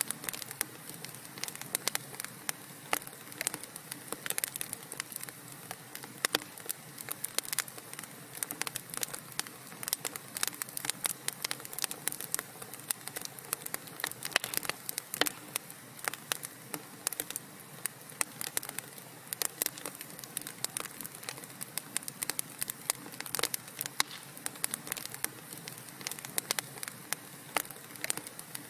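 Wood fire burning in a fireplace, crackling and popping in irregular sharp snaps over a soft steady hiss.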